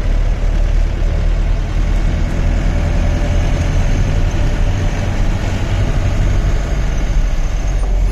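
Safari jeep's engine running steadily with a continuous low rumble.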